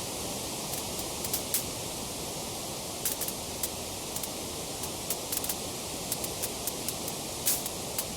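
Wood fire crackling: a steady soft hiss with frequent sharp pops and crackles at irregular intervals, bunched a few at a time, the loudest pop near the end.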